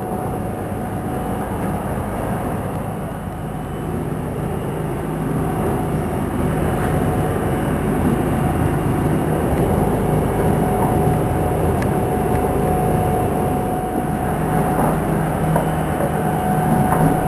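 Motorboat engine running steadily, a constant hum under a wash of wind and water noise, getting a little louder about four seconds in.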